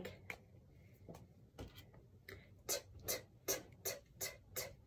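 A series of light ticks or taps in a quiet small room: a few scattered ones at first, then roughly two to three a second in the second half.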